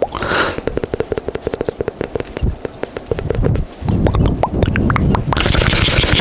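Rapid wet mouth pops and clicks made close to a sensitive microphone, the ASMR 'bubbles' mouth sound. There is a burst of breathy hiss at the start and another near the end, with low rumbling in the second half.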